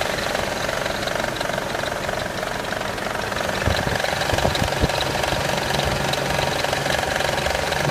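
Mercedes C32 AMG's supercharged 3.2-litre V6 running at idle with a steady clattering noise, which the owner puts down to a faulty supercharger. A few duller knocks come through about halfway.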